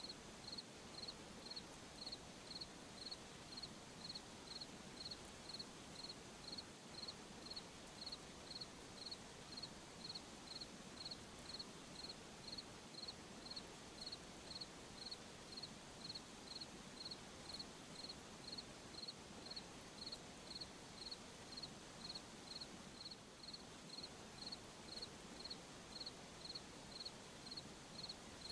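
A cricket chirping steadily, about one and a half short chirps a second, over a faint steady high insect trill and soft night-time background hiss.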